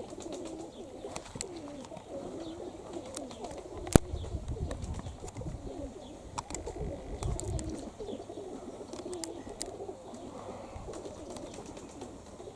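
Domestic pigeons cooing steadily at a pigeon loft, several birds overlapping. A single sharp click about four seconds in.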